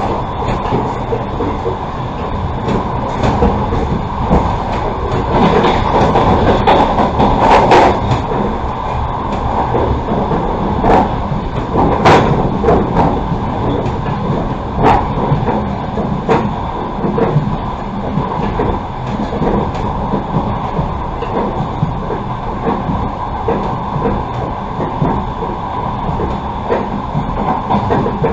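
Passenger train carriage running along the track: a steady rumble with scattered sharp knocks of the wheels over the rails, louder for a few seconds about six seconds in.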